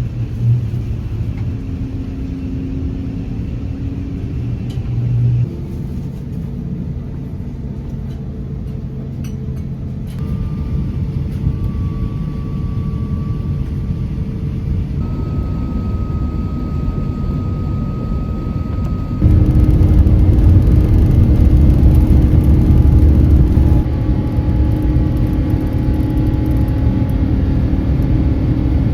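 Cabin noise inside an Airbus A350-900 airliner during departure: a steady low rumble of engines and airflow with a few faint steady tones. It changes abruptly several times and turns markedly louder about two-thirds of the way in.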